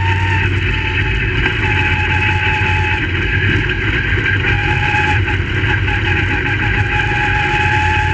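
Crate late model race car V8 engines running at a steady, nearly unchanging pitch.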